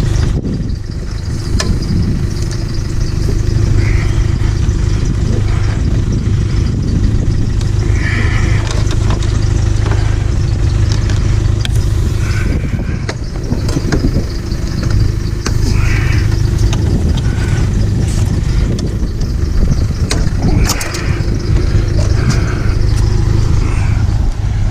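A vehicle engine idling with a steady low hum. Over it come scattered sharp clicks and snips as copper tubing is cut from a scrapped fridge.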